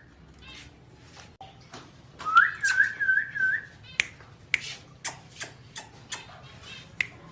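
Indian ringneck parrot whistling, a single note that rises and then wavers in about four quick pulses, amid a run of short sharp clicks.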